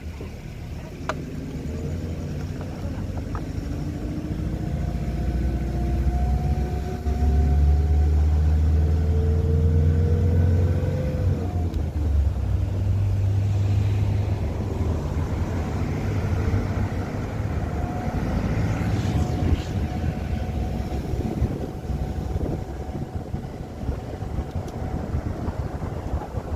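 A vehicle engine under way, its pitch climbing steadily for several seconds as it accelerates, then dropping at a gear change and running on steadily, over a heavy low rumble of road noise.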